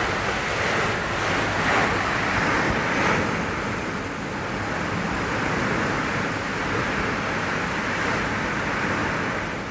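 Strong hurricane wind rushing in gusts that swell and ease, with wind buffeting the microphone.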